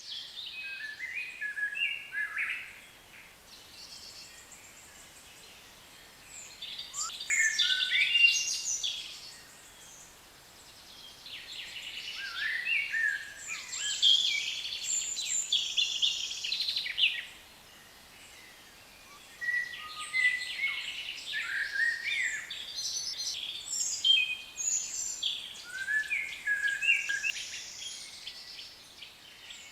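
Birds singing: bouts of quick chirps and warbling phrases with short quiet pauses between them.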